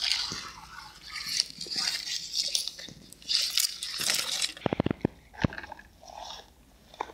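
Crunchy, crackly rustling in several bursts, like something being handled or pushed through dry material, then a quick run of sharp small clicks about two-thirds of the way in and one more click near the end.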